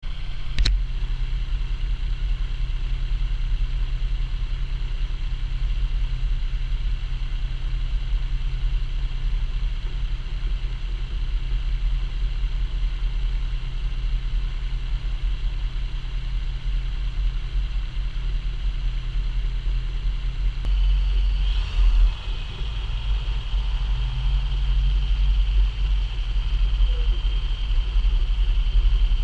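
Quik GT450 trike's Rotax 912 ULS flat-four engine running steadily in flight, a low drone mixed with wind noise, with a brief change in the sound about two-thirds of the way through.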